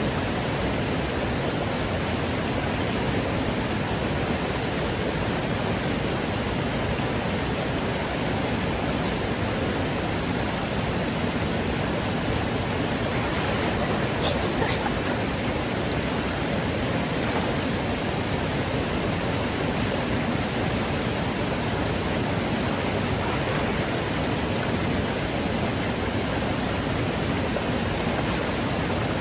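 Fast-flowing stream water rushing steadily over rocks.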